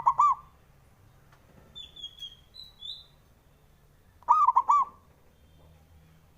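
Zebra dove (perkutut) cooing: a short burst of three or four quick, arched notes at the start and another about four seconds in. Faint high chirps of a small bird come in between.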